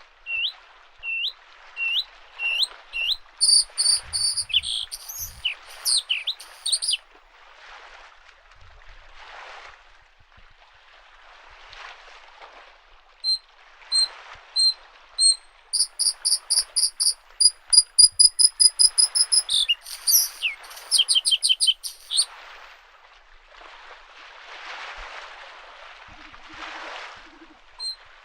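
A bluethroat singing: phrases of repeated rising whistled notes and fast rattling trills, in two bouts with a pause of several seconds between and a third starting near the end. Lake waves wash softly onto the shore in slow swells under and between the phrases.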